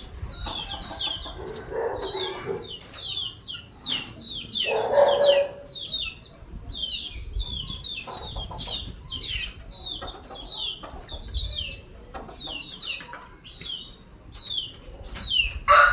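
Coleiro (double-collared seedeater) singing: a fast, continuous string of short descending whistled notes.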